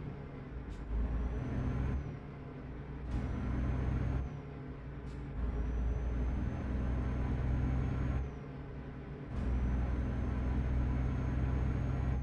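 Truck diesel engine heard from inside the cab, pulling hard in four surges with short dips between them, like an accelerating truck changing up through the gears. A faint high whine rises during each surge, and a few brief clicks fall between them.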